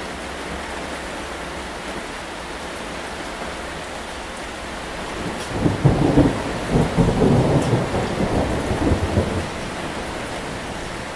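Steady rain falling, with a peal of thunder starting about halfway through that rumbles and rolls for about four seconds, then fades back under the rain.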